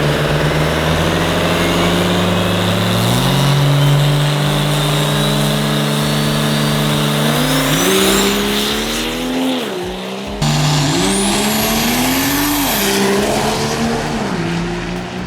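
Diesel race truck engine running hard, its pitch steady for several seconds, then climbing and dropping several times, with a high turbocharger whistle rising twice. The sound breaks off abruptly about ten seconds in and resumes.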